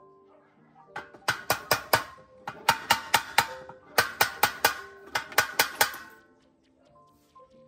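Quick runs of sharp hammer taps, about five a second in groups of four or five, over soft background music; the tapping stops about six seconds in.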